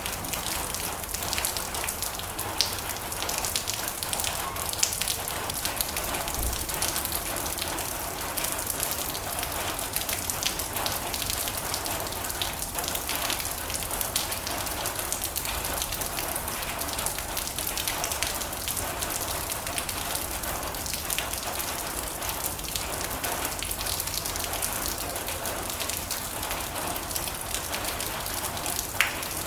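Steady heavy rain drumming on a metal roof, a dense hiss of countless drops with a few louder single taps standing out.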